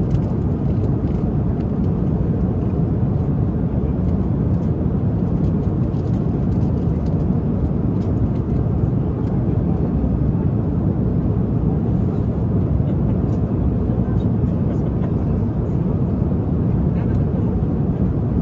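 Steady airliner cabin noise in flight: an even, low rumble and hiss of engines and airflow, with faint scattered clicks.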